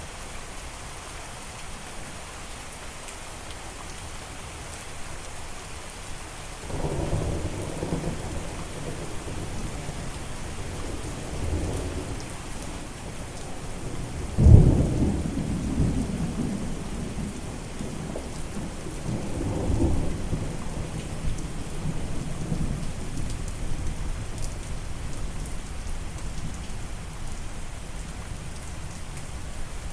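Steady rain with rolling thunder. A low rumble starts about seven seconds in, a sharper clap about halfway through is the loudest moment, and further rumbles follow for several seconds before fading back to rain.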